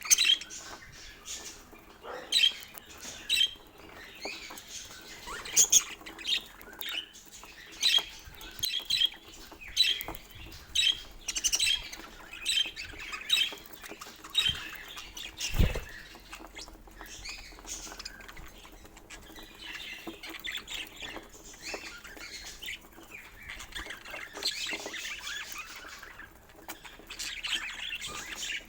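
Pet budgerigars calling: sharp repeated chirps and squawks every half second or so, then softer, busier warbling chatter in the second half. A single low thump about halfway through.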